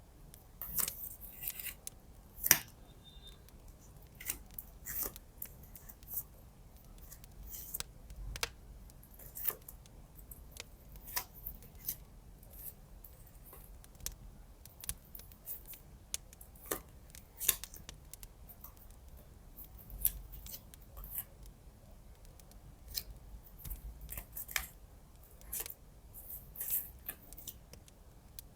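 Scissors snipping: many short, sharp snips at an uneven pace, a second or so apart, over a faint steady low background.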